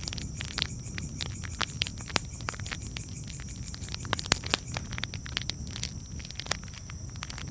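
Campfire crackling: frequent irregular pops and snaps over a low steady rumble, with a cluster of louder pops about four seconds in.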